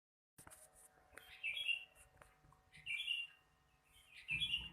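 A bird chirping in three short phrases about a second and a half apart, with a faint steady hum beneath.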